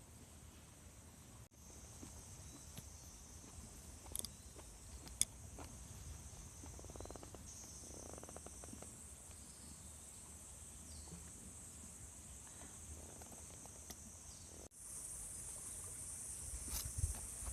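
Faint, steady high-pitched chorus of insects chirring, broken off abruptly twice, with a couple of small clicks.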